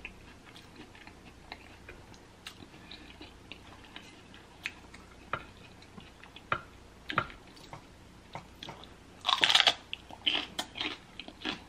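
Close-miked eating sounds: soft chewing with scattered small mouth clicks and smacks, then a louder crunchy bite into a pepper about nine seconds in.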